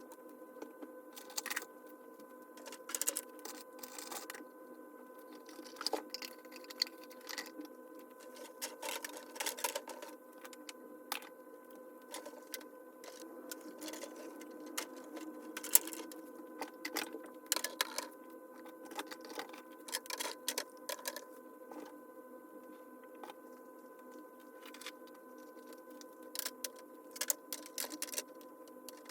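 Small items being handled and set down on a vanity table: irregular clicks and taps, some in quick clusters, over a steady electrical-sounding hum.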